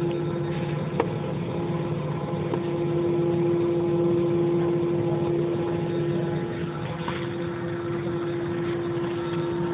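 Airliner jet engines running, heard from inside the passenger cabin: a steady drone with one held tone over a rushing hiss. There is a single sharp click about a second in.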